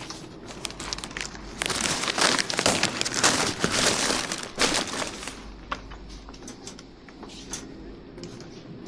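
Plastic crinkling, with a loud stretch of about three seconds starting about one and a half seconds in, and scattered small clicks around it.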